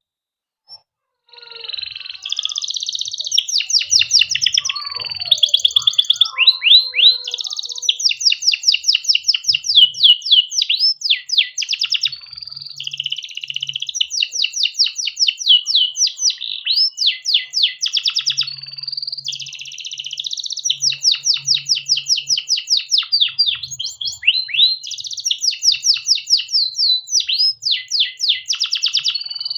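Domestic canary singing a long, unbroken rolling song of rapid trills, switching from one fast-repeated phrase to the next every few seconds. It starts after about a second of silence.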